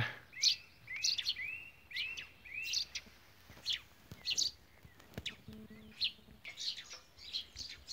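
Songbirds chirping: a quick run of four or five repeated arching notes in the first two seconds, then scattered short, sharp chirps. A faint low hum comes in briefly a little past halfway.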